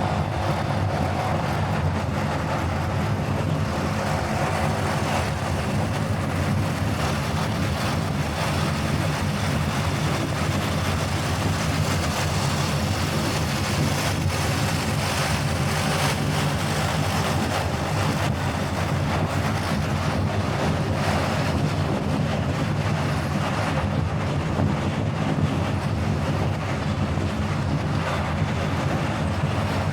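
Car driving at a steady pace: a constant rumble of engine and road noise, with some wind.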